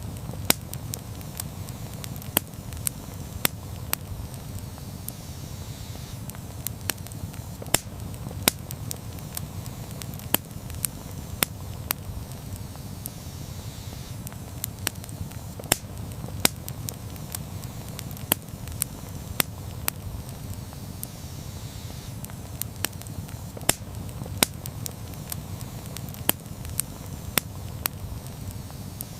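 Wood campfire burning: a steady low rumble of flames with irregular sharp crackles and pops, about one or two a second.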